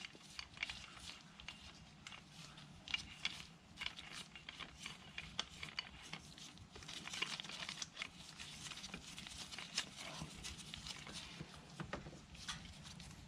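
Faint, scattered small clicks and light handling noises of metal tools being worked on the cylinder head as a valve spring compressor is fitted over the valve spring.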